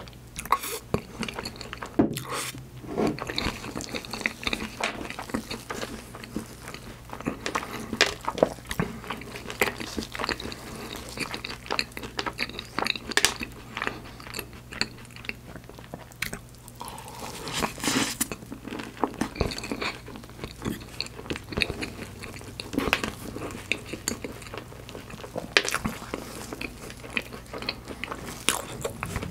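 Chewing and crunching of choux-pastry profiteroles covered in white chocolate, chocolate chips and sliced almonds, with many small crisp clicks and crackles throughout.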